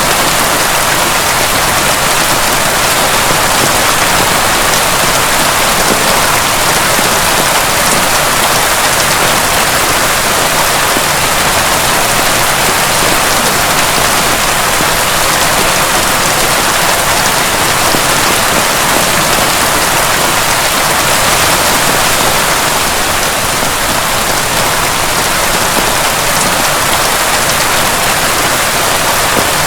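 Heavy rain falling steadily, a dense even patter with no breaks and no thunder.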